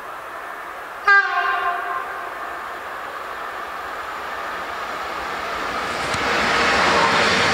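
E6ACT Dragon electric locomotive hauling tank wagons gives one short horn blast about a second in, which echoes briefly. Then the rumble of the approaching train grows steadily louder toward the end.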